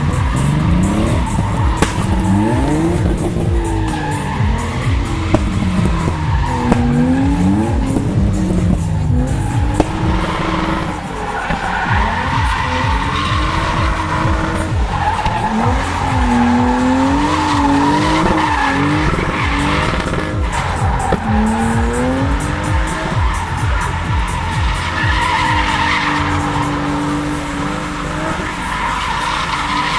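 BMW E36 inline-six drift car engine revving, its pitch climbing and dropping over and over as the driver works the throttle through a slide, with tyres squealing throughout.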